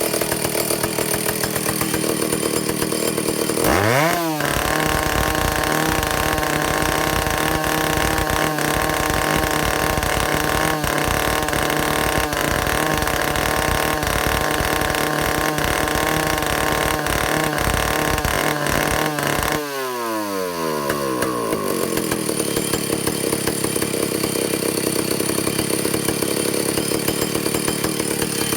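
Vintage Stihl chainsaw's two-stroke engine on a test run. It idles, is revved sharply to full throttle about four seconds in and held there steadily for about fifteen seconds, then drops back to idle. It is being run to check the carburetor adjustment after the fuel-system and air-leak repairs.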